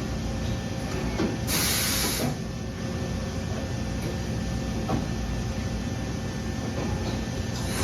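Okuma MULTUS U4000 multitasking CNC lathe running with a steady hum, a short burst of hissing about a second and a half in, and a few light clicks.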